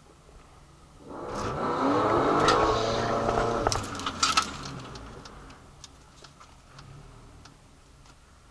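Drag-racing car engine at full throttle going by on the strip, its pitch climbing as it accelerates. A few sharp cracks come near the loudest point, and then it fades into the distance.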